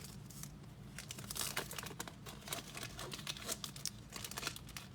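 Cellophane wrapper of a football card value pack crinkling and tearing as it is ripped open, a rapid irregular crackle.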